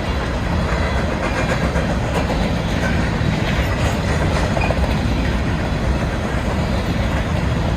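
BNSF grain train's hopper cars rolling past: a steady loud rumble of wheels on rail, with light clacking over the rail joints.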